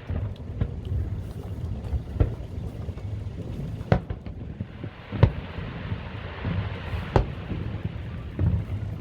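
Fireworks shells bursting: a sharp bang every one to two seconds, four of them loud, over a steady low rumble.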